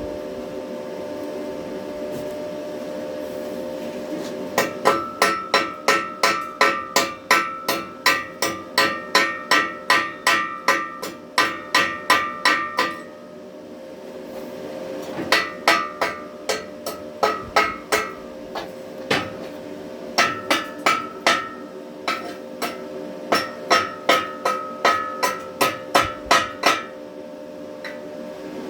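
Chipping hammer knocking slag off a fresh stick weld on steel: runs of quick, ringing metal strikes, about three a second, in four bursts with short pauses between.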